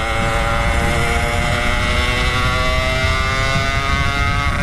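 Yamaha RX 135 two-stroke motorcycle engine running hard at high revs in top gear, its note steady and creeping slowly up in pitch, with the engine at the end of its power: 'out of breath', as the rider puts it. Heavy wind rush on the microphone underneath.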